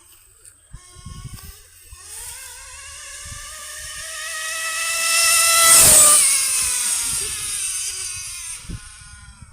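Nitro RC car engine screaming at high revs as the car passes by: it grows louder and is loudest about six seconds in, where the pitch drops, then fades away.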